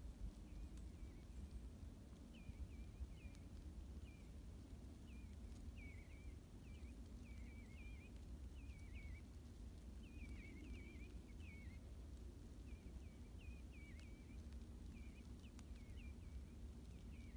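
Faint bird calls: many short chirps, some overlapping, repeating every second or so over a low steady rumble.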